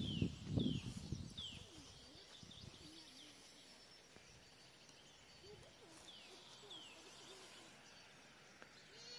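A bird calling in quiet outdoor ambience: short high downslurred notes, three in the first second and a half and two more about six seconds in. A few low thumps in the first second are the loudest sound.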